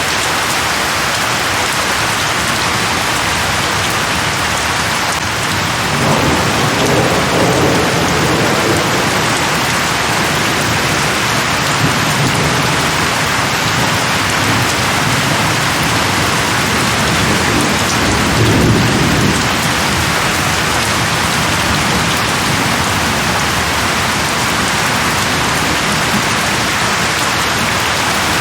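Steady rain falling on leaves, with thunder rumbling twice: a few seconds of low rumble about six seconds in, and a shorter one about two-thirds of the way through.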